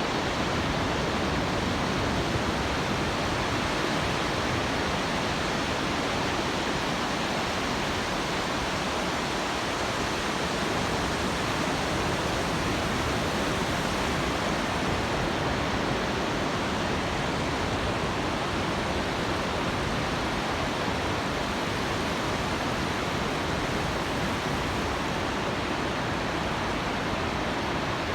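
Steady roar of Pacific Ocean surf breaking on a beach, an even wash of noise with no single wave standing out.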